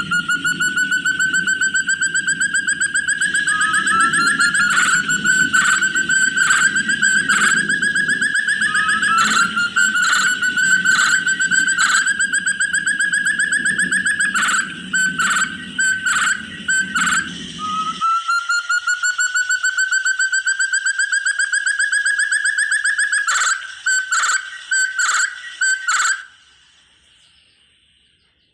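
Forest partridge (puyuh hutan, called 'terung') calling: a series of long whistles, each rising slowly over about two seconds. Between them come runs of short clipped notes at about five a second. A low steady hum runs beneath the first part and stops abruptly about 18 seconds in.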